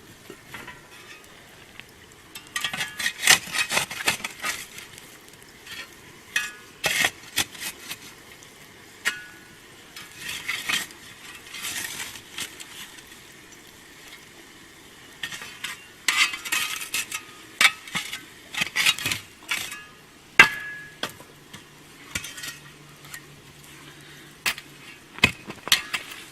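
Metal scraping and clinking against a cast-iron camp oven as it is worked over a campfire, in scattered bursts, with one sharp ringing clink near the end.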